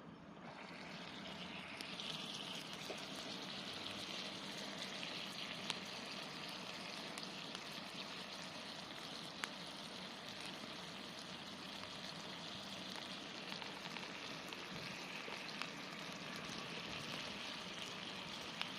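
Pork and bean sprouts sizzling and steaming inside a Bawloo hot-sandwich cooker over a campfire: a steady hiss that builds over the first two seconds, with a few sharp pops.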